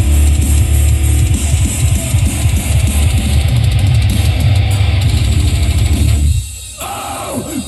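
Loud battle-mix music with very heavy bass, guitar and drums played over a competition sound system. About six seconds in the bass cuts out and swooping up-and-down tones take over.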